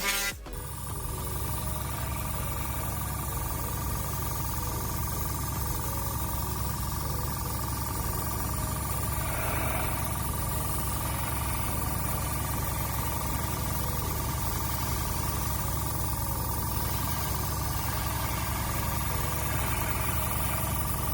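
A machine running steadily, with a low hum, a constant whine and an even hiss. It starts abruptly and stops abruptly.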